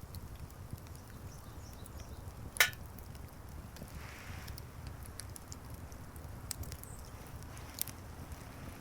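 Wood fire crackling in a fire pit: a low steady noise with scattered small ticks, one sharp pop about two and a half seconds in and a smaller one near the end.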